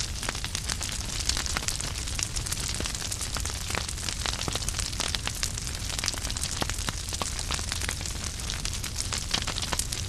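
Wood fire crackling in a fireplace: many sharp, irregular pops and snaps over a steady hiss and low rumble of the flames.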